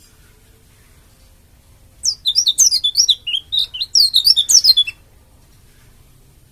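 White-eye (pleci, 'dakun Bali' type) singing a fast, jumbled burst of high chirps and twitters for about three seconds, starting about two seconds in.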